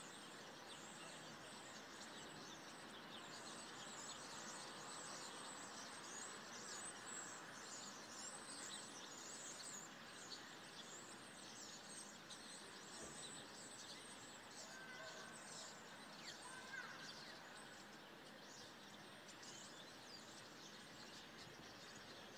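Faint chorus of many small birds chirping, with quick high calls that crowd together over a steady background hiss. The calls thin out in the second half.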